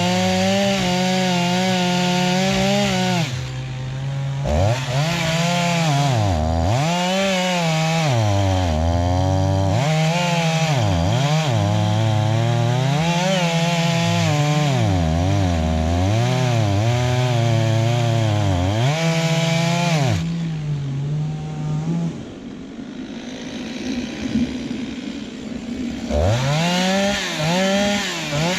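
Two-stroke chainsaw at full throttle, cutting wood. Its engine speed dips and recovers over and over as the bar bogs under load. About 22 seconds in it drops to a quieter idle, then revs up again in short bursts near the end.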